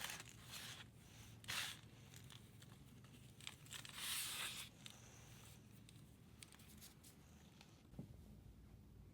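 A block of pressed powder being crunched and broken up by hand, close to the microphone. There are a few short gritty crunches and a longer scraping one about four seconds in, then only faint small crackles.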